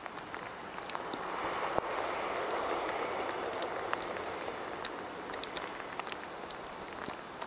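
Distant diesel passenger train running across a viaduct: a soft rushing rumble that swells about a second in and fades toward the end. Scattered ticks of light rain sound throughout.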